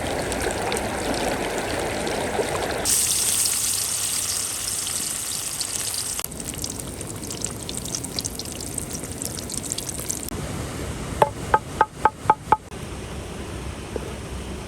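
A string of short outdoor cooking sounds joined by abrupt cuts: running water, then a hissing sizzle of frying, then a crackling fry. Near the end come about six quick, ringing metallic taps.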